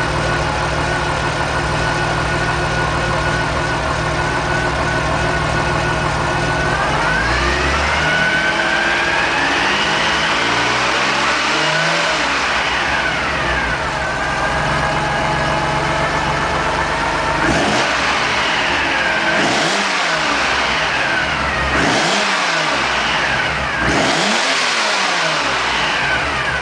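Nissan S20 DOHC straight-six in a Fairlady Z432, warm, idling steadily, then revved up and held for several seconds before settling back to idle. In the last ten seconds it is blipped four times in quick, sharp revs.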